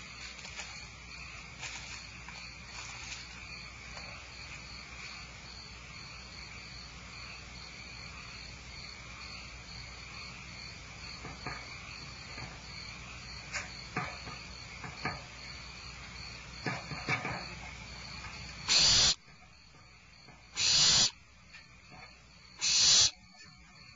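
Barn owl giving loud, harsh hissing screeches, three short calls about two seconds apart starting near the end. Before them there is only a faint steady high insect-like trill with a few light ticks.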